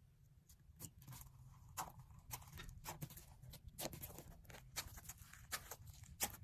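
Slime being played with by hand, giving quick, irregular little clicks and pops, several every second.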